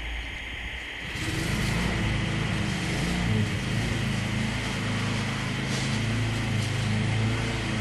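An engine running steadily, a low even hum that gets louder about a second in.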